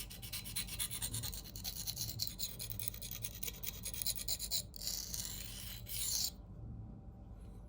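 Knife blade of CPM 4V steel scraped in rapid strokes across a dry, coarse 325-grit diamond plate, reprofiling the edge to remove the factory grind. The scraping breaks off briefly a little past the middle and stops about six seconds in.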